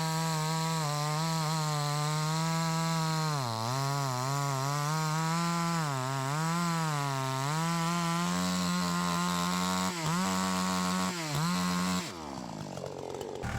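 Farmertec JonCutter gas chainsaw running at high revs while cutting through wood, the engine pitch sagging and recovering repeatedly as the chain bogs under load. Near the end the revs fall away sharply.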